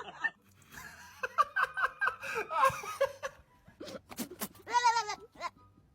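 A woman laughing, then a young goat bleats once about five seconds in.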